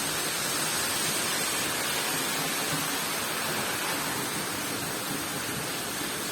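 Heavy downpour of rain, a steady dense hiss of rain falling and splashing on surfaces.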